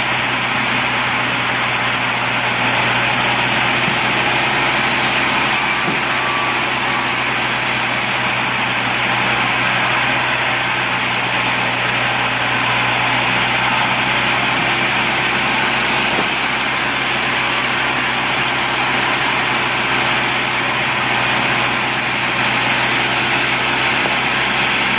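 Sawmill band saw running with a steady drone: a low hum under an even hiss, unchanging throughout.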